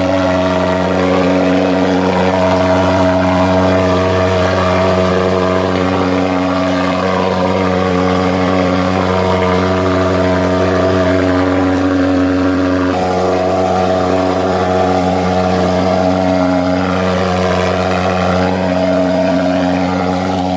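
Thermal fogging machine running at a steady, even drone while fogging for insects.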